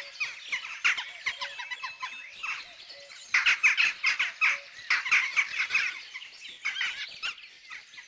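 Birds chirping and calling in quick, overlapping bursts, busiest in the middle and thinning near the end.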